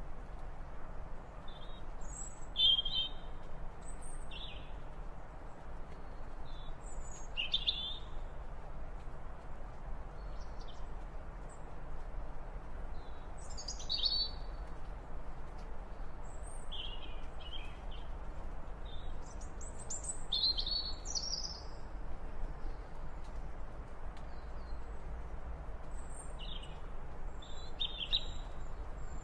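Wild birds chirping: short, scattered high calls every second or two, some sweeping down in pitch, over a steady low background hiss.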